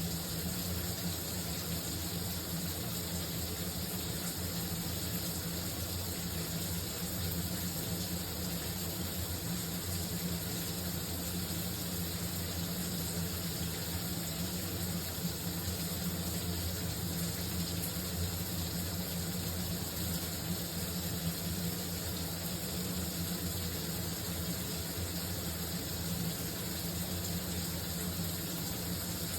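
Shower running: a steady, unbroken spray of water with a constant low hum beneath it.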